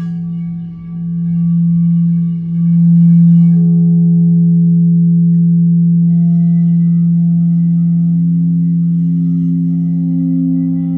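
A deep, sustained ringing tone with higher overtones above it, swelling and pulsing in loudness. New higher tones join about six seconds in.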